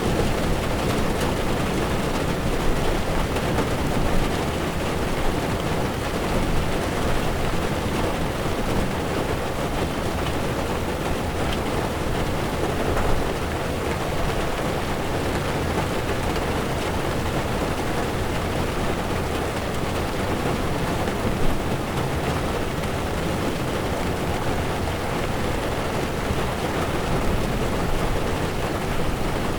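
Heavy rain drumming steadily on a car's windshield while the car drives, with tyres hissing on a wet road under a low road rumble. A few louder taps stand out now and then.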